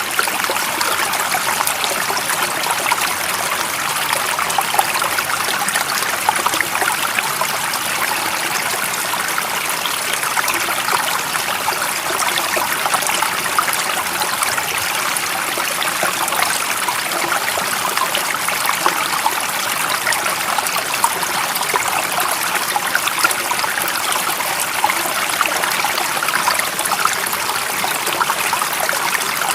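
Stream water running and splashing, a steady hissy rush that stays the same throughout.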